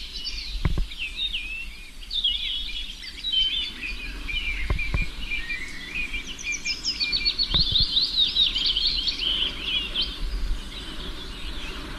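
Several songbirds singing at once, with rapid, overlapping chirping and trilled phrases, over a low rumble and a few soft knocks.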